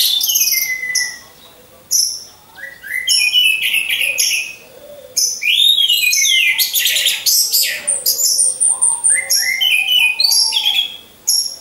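Orange-headed thrush singing: loud, varied phrases of fast high whistles and twittering glides, with a few short breaks between bursts.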